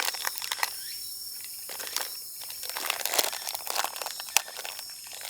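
Plastic packaging crinkling and crackling in the hands, with scattered sharp clicks, as it is twisted and pulled while it refuses to open.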